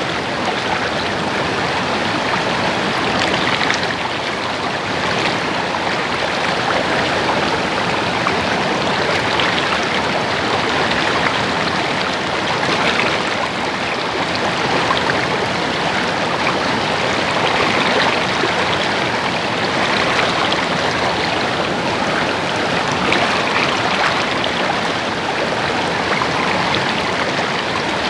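A small stream running steadily, water babbling and splashing over rocks.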